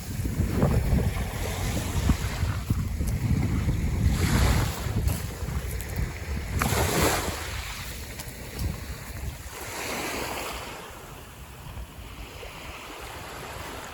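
Wind buffeting the microphone over small waves washing onto the beach, with a swell of surf every few seconds. The wind rumble eases about halfway through.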